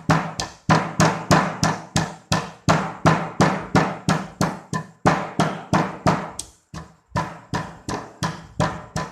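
Chilies and garlic pounded with a pestle in a mortar: steady sharp strikes, about three a second, with a brief pause about seven seconds in.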